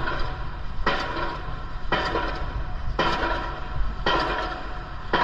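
Steady low rumble of wind on the microphone, with a swishing noise that starts sharply and repeats about once a second.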